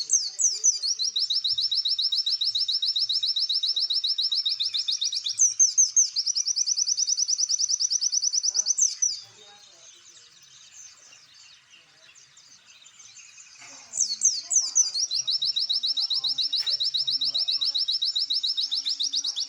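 A songbird singing a fast, high-pitched trill of rapidly repeated downward-sweeping notes. It opens with a few louder sweeps and runs for several seconds, stops for about five seconds, then starts again the same way.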